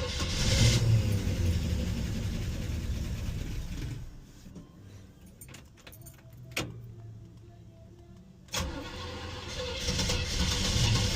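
A 1961 Chevy Impala's engine being started for the first time after an oil change: it turns over loudly for about four seconds and stops, a sharp click comes in the quiet pause, and about eight and a half seconds in it starts up again, growing louder toward the end.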